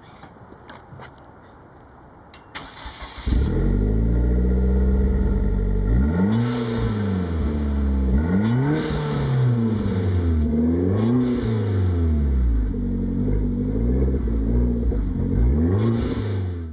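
Hyundai Genesis Coupe 2.0T's turbocharged four-cylinder through a TurboXS turbo-back exhaust: after a few clicks, a short crank catches about three seconds in and the engine starts loudly, then it is revved several times, pitch rising and falling, before the sound cuts off suddenly at the end.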